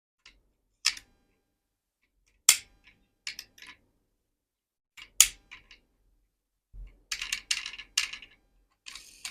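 Diecast model cars being handled: sharp, separate clicks and clacks of small hard metal and plastic parts, a second or two apart, then a quick run of clicks near the end and a brief scrape.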